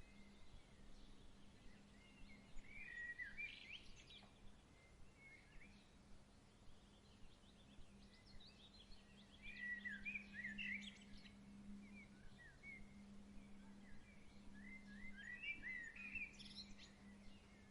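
Faint songbird singing in three bursts of quick, warbling chirps, over a steady low hum.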